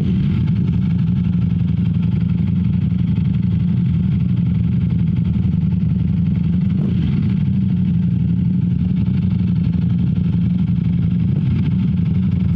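Ducati Streetfighter V4 S's V4 engine running steadily at an even pace while the bike is ridden, with a constant engine note and no change in revs.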